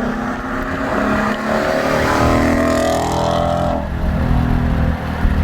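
Ford Mustang GT's 5.0 Coyote V8 through an aftermarket cat-back exhaust, its note climbing under throttle for about two seconds, then dropping suddenly and settling into a low rumble.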